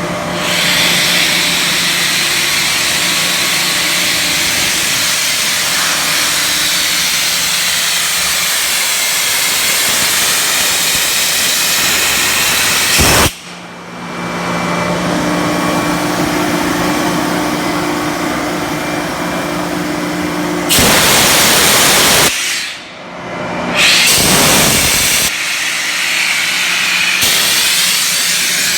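Sullair 25-horsepower rotary screw air compressor running: a steady hum under a strong rush of air. About 13 seconds in the sound breaks off abruptly and comes back. Two stretches of louder hiss follow, later on, with a sudden dip between them.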